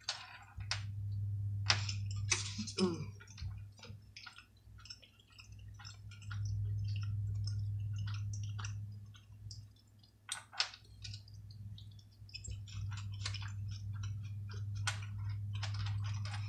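Close-miked chewing of a mouthful of pulled pork, rice and cabbage, with many small wet mouth clicks and lip smacks. A low hum comes and goes in the background.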